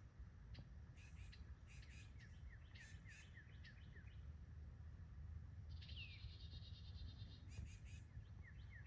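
Several small songbirds giving faint, sharp chip calls in quick clusters, with a run of short down-slurred notes and a buzzy trill about six seconds in: alarm calls of birds mobbing a black snake climbing toward their nest.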